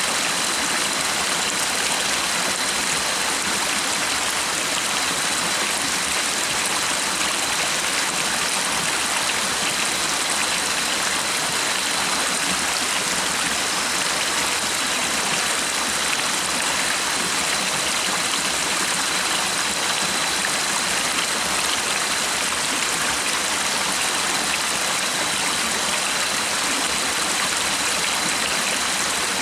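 Stream water running steadily, an even rushing hiss with no let-up, over a thin, steady high tone.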